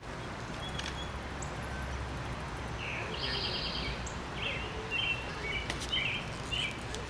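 Outdoor ambience: songbirds chirping, with a quick trill about three seconds in and several short chirps after it, over a steady low rumble.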